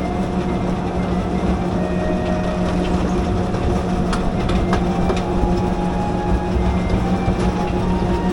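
Forest railway train running with a steady engine drone, wheels clicking now and then over the rail joints.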